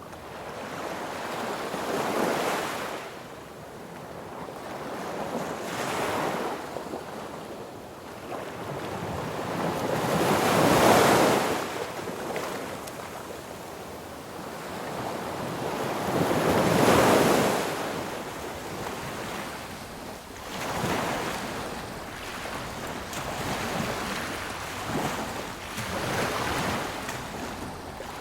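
Sea waves breaking on a beach, a hiss of surf that swells and ebbs every few seconds, with the two biggest breakers about a third and two-thirds of the way through.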